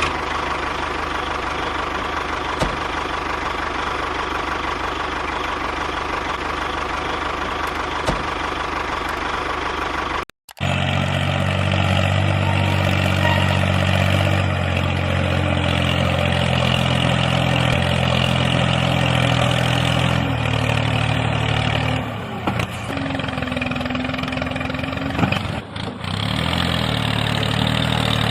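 An engine-like motor running steadily. It breaks off briefly about ten seconds in and resumes with a deeper, even hum, dipping for a moment twice near the end.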